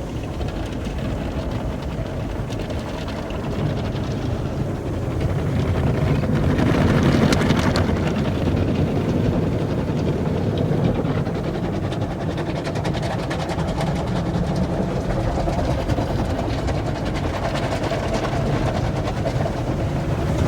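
Automatic tunnel car wash working on a car: a steady wash of spraying water and machinery noise with a rapid patter, louder from about six seconds in.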